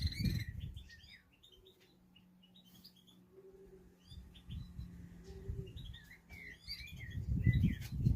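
Small birds chirping in short, scattered calls, with low rumbling thumps on the microphone near the start and again near the end.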